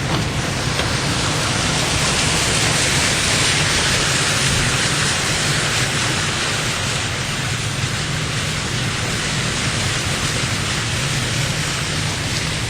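Heavy rain falling: a loud, steady hiss with a constant low rumble underneath.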